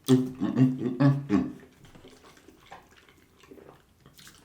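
Close-miked chewing and mouth sounds of a person eating a barbecued beef rib. In the first second and a half there are loud rhythmic pitched pulses, a few per second; after that it falls to quieter, scattered chewing clicks.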